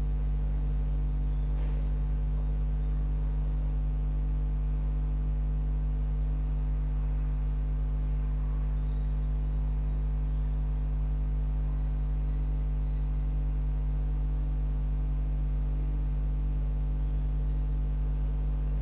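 Steady low electrical hum with a stack of evenly spaced overtones, like mains hum, unchanging throughout.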